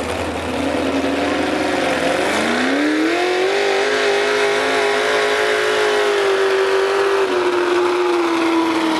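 Truck engine revving hard under heavy load while pulling a weight sled. The revs rise, dip briefly about two seconds in, then climb again and hold steady and high.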